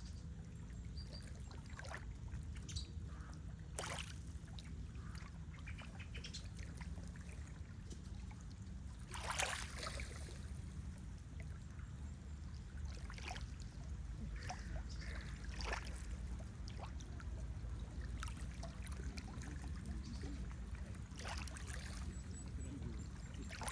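Lake water lapping and trickling, with scattered small splashes and drips over a steady low rumble; the loudest splash comes about nine seconds in.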